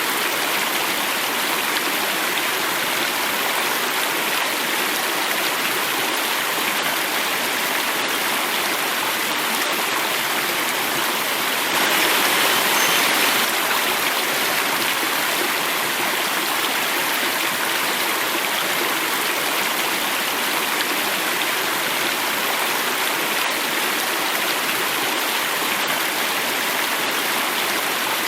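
Running water flowing and falling over a small cascade: a steady rush that swells briefly about twelve seconds in.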